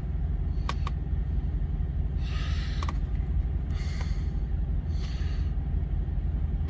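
Steady low rumble of an idling truck engine, with a few light clicks and three short hissing, rustling sounds about two, four and five seconds in.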